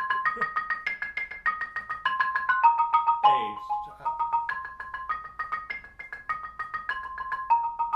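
Xylophone played with mallets in fast, even strokes, sounding two bars together as double stops. The pairs step up and down in a repeating practice pattern.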